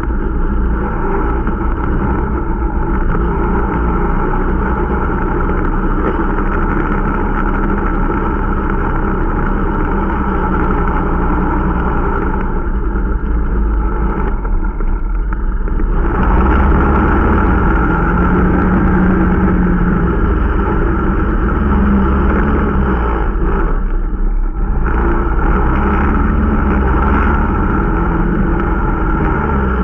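A small Irbis Dingo T125 snowmobile's 125 cc engine running under way during its break-in. The throttle eases off briefly about halfway through and again later on, and the engine is louder after the first lift.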